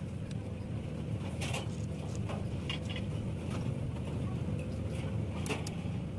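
Workshop background: a steady low mechanical rumble with scattered clicks and knocks.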